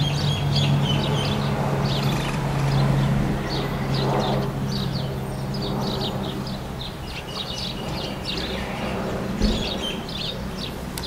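A parrot chirping in quick, short, high calls, over a steady low engine hum.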